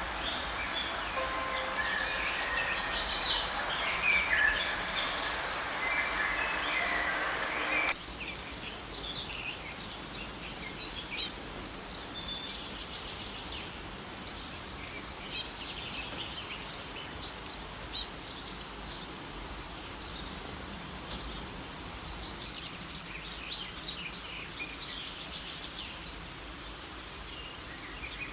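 Wild birds chirping and singing in a dense chorus; about eight seconds in, the sound cuts to a quieter background where three short clusters of sharp, high-pitched chirps stand out.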